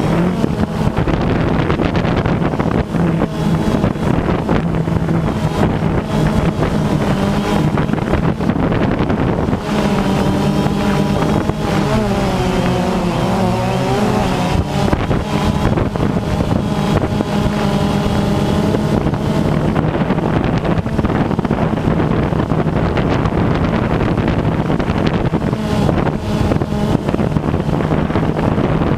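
DJI Phantom 2 quadcopter's motors and propellers humming steadily, their pitch wavering up and down about halfway through as the motors change speed, under heavy wind noise on the microphone.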